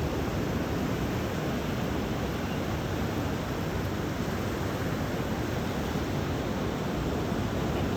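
Steady surf on the beach mixed with wind on the microphone: an even hiss with no distinct events.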